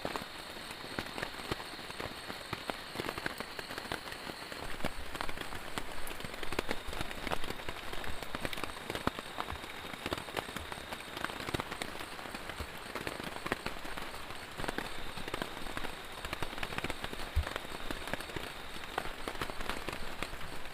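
Heavy rain falling steadily, with a dense patter of individual drops striking a nearby surface.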